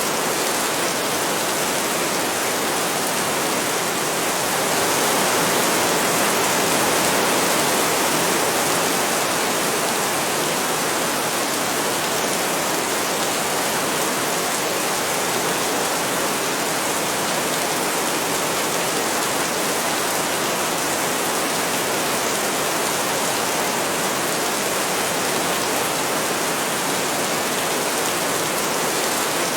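Heavy rain falling steadily, swelling a little for a few seconds about five seconds in.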